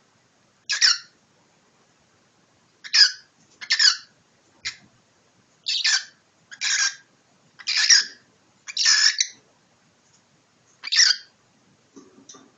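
Cockatiel giving harsh, hissing squawks in short separate bursts, about nine of them, with pauses between: the defensive sound of an agitated cockatiel.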